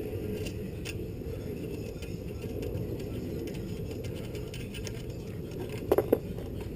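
Small metal parts and tools being handled while a screw is fitted, with a few light clicks and a sharper double click about six seconds in, over a steady low rumble.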